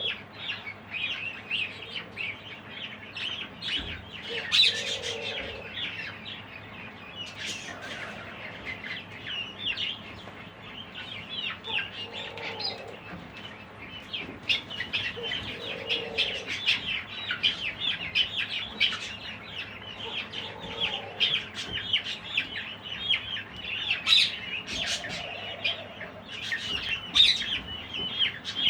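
A flock of budgerigars chattering and chirping without pause, with a lower, soft fowl call rising above it every few seconds.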